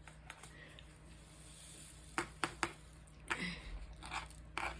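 A few light clicks, three close together about two seconds in, then brief rustling of small objects being handled.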